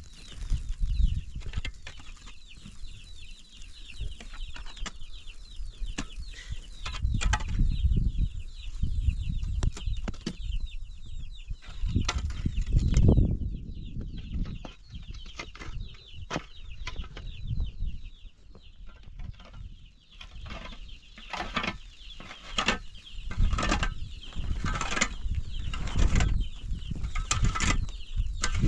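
Chickens clucking and cheeping in many short high calls, over a low rumbling noise with scattered knocks.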